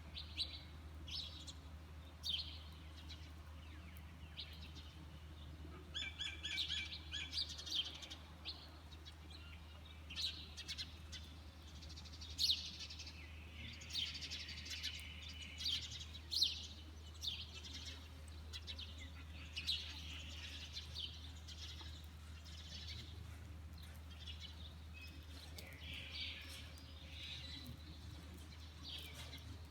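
Birds chirping and calling in many short, high chirps, busiest in the first half, over a steady low hum.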